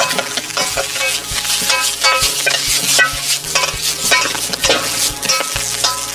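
Fried rice being stir-fried in a pan over a campfire: steady sizzling with a utensil repeatedly scraping and knocking against the pan.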